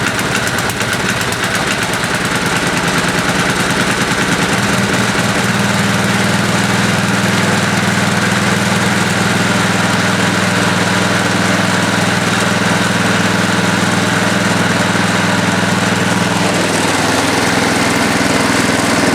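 1973 Ariens snow blower engine running just after a cold start with the choke on, firing unevenly at first and settling into a steady run about five seconds in. Its speed changes briefly near the end.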